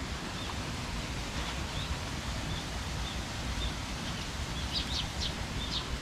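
Songbirds chirping, short high calls repeating every half second or so, with a quicker run of sharper calls near the end, over a steady hiss of rain and wind. The birds are said to be real, not a recording played in the garden.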